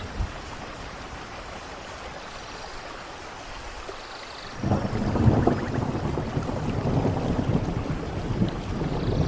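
Rain falling steadily in a rainforest thunderstorm. About halfway through, a loud, deep rumble of thunder rolls in suddenly and keeps going.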